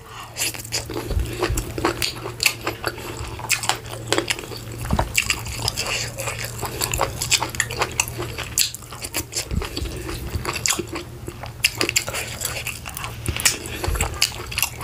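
Close-miked eating: a person chewing and biting mouthfuls of leafy vegetable soup and meat, a dense run of wet mouth clicks and smacks. A steady low hum runs underneath.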